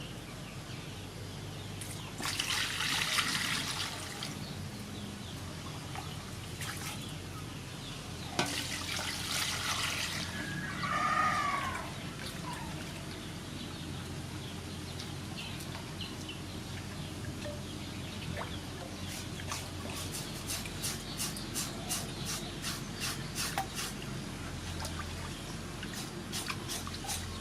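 Water splashing and pouring in two bursts of a couple of seconds each as raw pork is rinsed by hand. A short bird call, like a chicken's, comes about eleven seconds in. In the last third there is a long run of quick, sharp ticks, like drips or light taps.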